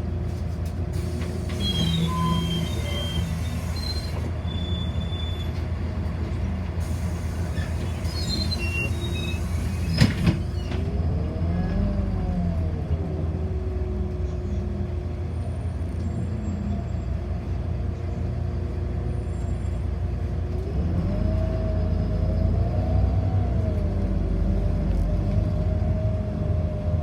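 Inside a city bus: steady low drive hum, with a few short high beeps in the first seconds and one sharp knock about ten seconds in. After the knock, and again near the end, a whine rises and falls in pitch as the bus gets under way.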